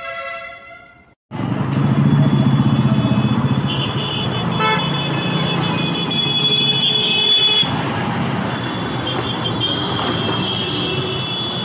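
Road traffic with a heavy vehicle's engine running, starting after a brief gap about a second in, with high thin tones sounding on and off over it.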